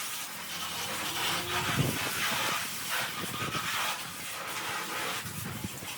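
Pressure washer spraying water, a steady rushing spray whose level shifts a little as the jet moves.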